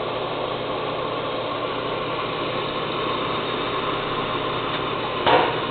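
New Fasco replacement combustion blower motor in a Lopi Pioneer Bay pellet stove running with a steady, smooth hum and no banging or scraping on the housing. A brief louder noise sounds once near the end.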